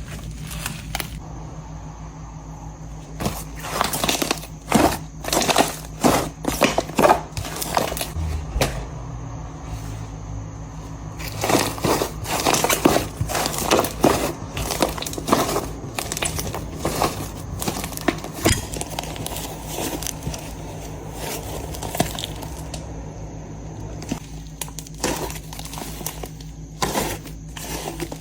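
Slime being pressed, poked and stretched by hand, making crackling, popping clicks that come in dense clusters with quieter stretches between.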